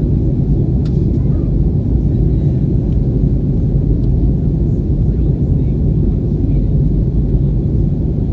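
Steady low rumble of an Airbus airliner's jet engines and airflow, heard from inside the passenger cabin in flight.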